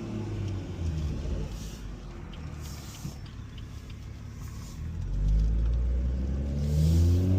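BMW 440i's turbocharged B58 inline-six, running MHD Stage 2 tuning with catless downpipes and a dual resonator delete on the stock exhaust, rumbling at low revs. About five seconds in it gets much louder and deeper, and its pitch starts to climb near the end as it accelerates.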